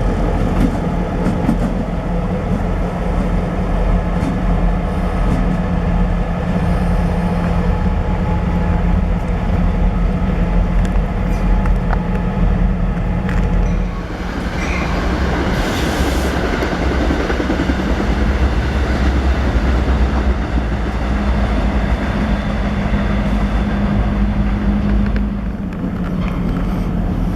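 Train's diesel locomotive engine running steadily with a low hum, its note changing about halfway through and again near the end, with a short hiss around the middle.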